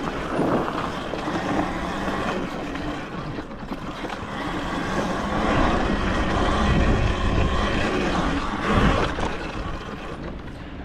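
Wind rushing over the microphone and tyres on loose dirt as a bike is ridden around a dirt track, with a couple of bumps.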